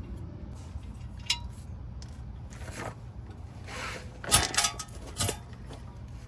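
Metal tools and car parts clinking and scraping as a bolt is worked on, with a loud cluster of clinks about four seconds in and another clink a second later. A steady low hum runs underneath.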